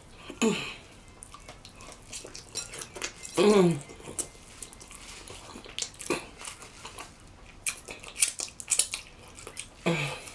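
Close-miked wet chewing, lip-smacking and finger-licking, with sharp mouth clicks that come thickest in the second half. It is broken by two or three short, falling hummed 'mm' moans of enjoyment.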